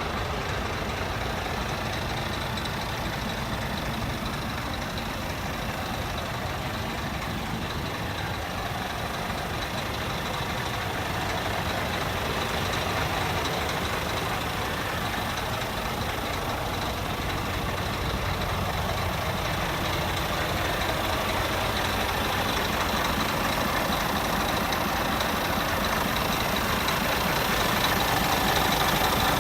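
Scania G360 truck's diesel engine running steadily, growing slightly louder toward the end.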